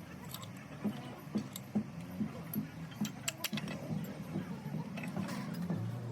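Metal tools and parts clinking and knocking irregularly during mechanical repair work, with a steady low hum underneath.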